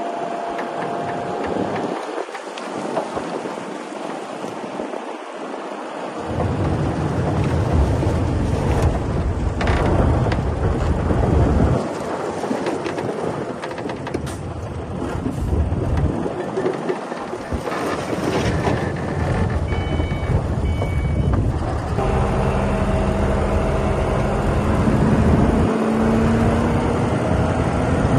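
Heavy diesel earthmoving machinery working: a loud, rough engine rumble that grows heavier about six seconds in. A few short high beeps come around the middle, and near the end an engine's pitch rises as it revs.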